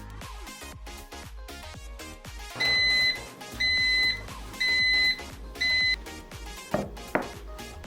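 A kitchen appliance's electronic beeper sounding four high, steady beeps about a second apart, the last one shorter, over background music. Two sharp clicks follow near the end.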